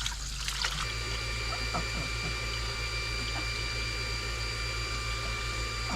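Water splashing for under a second, then a steady electric water pump running, a low hum with a constant high whine over it.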